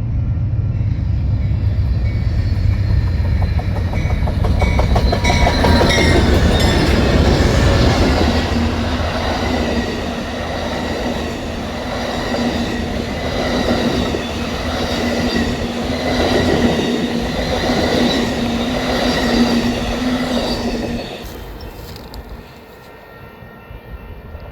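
Amtrak passenger train running past: a heavy diesel rumble from its GE P42DC locomotives, then the passenger cars' wheels clattering over the rail joints in a quick rhythm, with a steady tone above it. The sound drops away suddenly about 21 seconds in as the end of the train passes.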